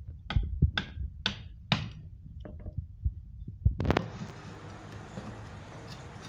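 Knocks on wood, about two a second, as of a frame being hammered together. About four seconds in, they give way suddenly to a steady hiss.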